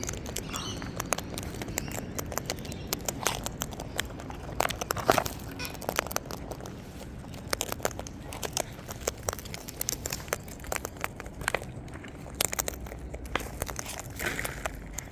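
Wild parrots cracking and nibbling seed, a dense irregular run of sharp little clicks and crackles.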